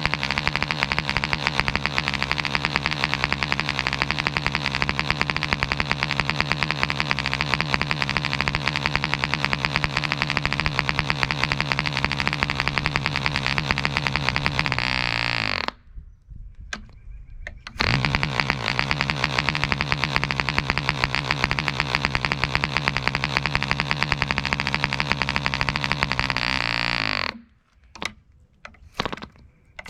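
Webra 1.5 cc model-airplane diesel engine running steadily, then slowing and stopping about halfway through. It catches again abruptly about two seconds later, typical of the easy hot restarts this engine makes, runs steadily, then slows and stops again near the end.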